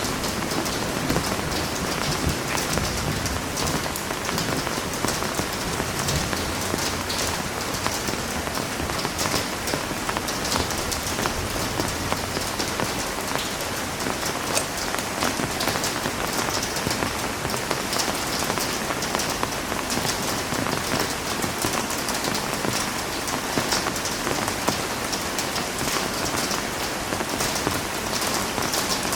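Heavy rain falling steadily, a dense, even patter of drops on a surface.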